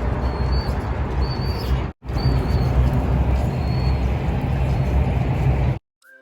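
Outdoor background noise with a deep rumble, and a bird repeating a short high chirp about once a second. The sound cuts out for a moment about two seconds in and again near the end.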